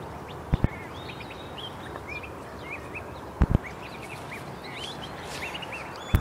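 Many short, quick bird chirps, coming thick and fast, over a steady background noise, with a couple of brief knocks.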